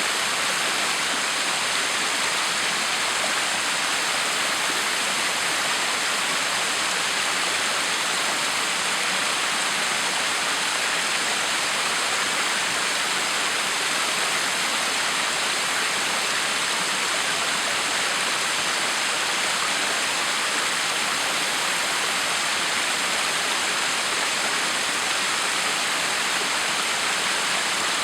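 Backyard waterfall: water pouring and splashing steadily, an even, unbroken rush.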